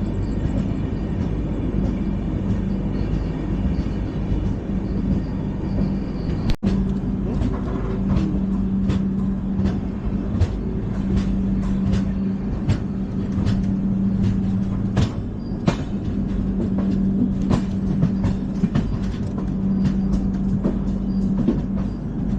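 LHB passenger coaches running at speed on the track: a steady rumble with a low hum and irregular sharp clicks from the wheels over the rails. The sound cuts out for an instant about six and a half seconds in.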